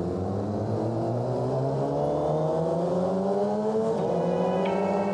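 Suzuki GSX-R600 inline-four with an M4 exhaust pulling steadily in gear, its note rising slowly as the bike gains speed, over wind rush. A thin, steady high tone comes in near the end.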